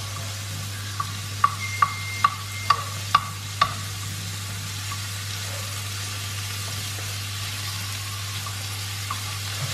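Chopped onions and green chillies sizzling in oil in a stainless steel kadai over low heat, stirred with a wooden spoon. Between about one and four seconds in, the spoon knocks against the pan six times, about two a second.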